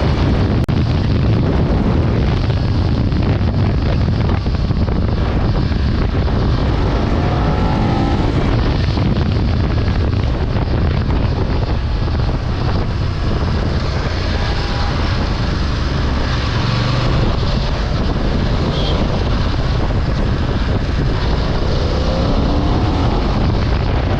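Heavy, steady wind noise on the microphone of a motorcycle ridden at speed. The engine's pitch rises and falls now and then beneath it.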